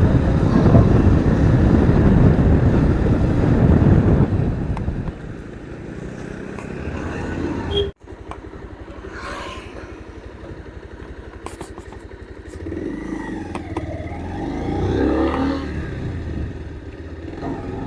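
Motorcycle running while being ridden, heard from the bike, loudest for the first four seconds and then quieter. A sudden break comes about eight seconds in.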